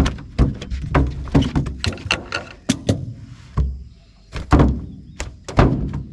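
Irregular knocks and thuds against a boat, about a dozen hard hits, some louder than others.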